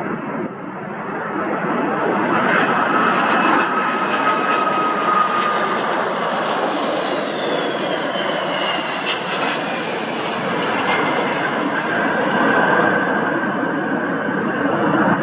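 Jet engines of a Boeing 747-400 landing: a loud, steady rush of engine noise, growing louder over the first few seconds, with whining tones that slowly fall in pitch.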